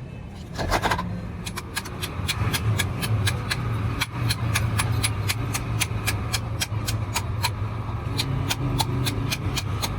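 Rapid, evenly spaced sharp metallic knocks, about three to four a second, over a steady low machine hum, with a brief louder clang just under a second in.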